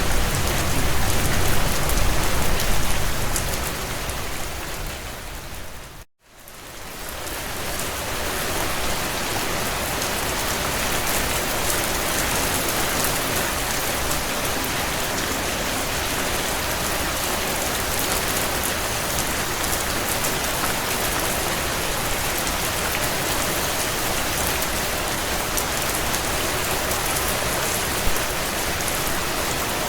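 Heavy rain falling on a tin roof: a steady hiss with many small drop ticks. About six seconds in it fades out to a moment of silence, then fades back up within a couple of seconds and runs on evenly.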